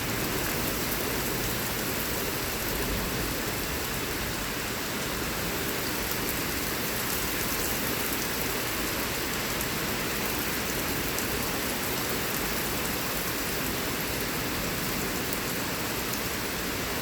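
Heavy rain pouring steadily in a severe thunderstorm, an even hiss of rain on surfaces.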